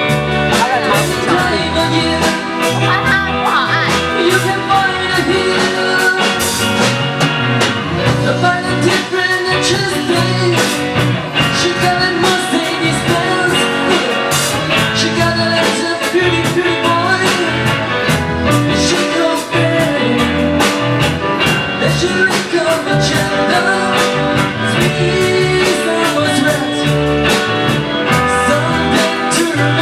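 A band playing a rock song, with singing over electric guitar and drums.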